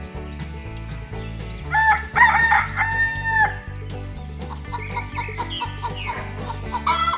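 A rooster crows once about two seconds in, a long call ending on a held note, with shorter chicken clucks later, over background music with a steady low beat.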